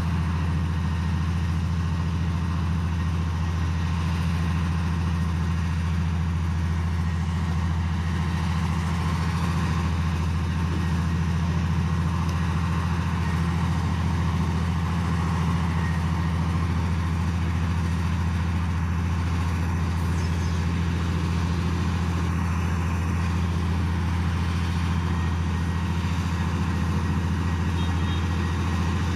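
Heavy diesel earthmoving machine running steadily: a deep, even engine drone that holds the same speed throughout, with no revving.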